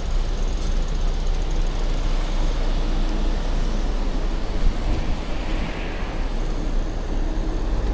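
Steady wind rush on the microphone and road noise while riding an electric bicycle uphill.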